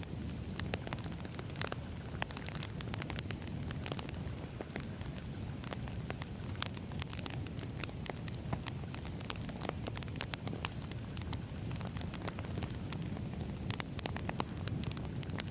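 Wood fire burning, with a steady low rumble of flames and frequent irregular crackles and pops from the burning logs.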